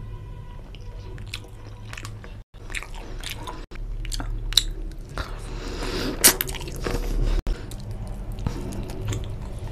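Close-miked eating: biting into and chewing chicken drumsticks in curry, heard as a string of short clicks and smacks. It breaks off abruptly three times where short clips are cut together.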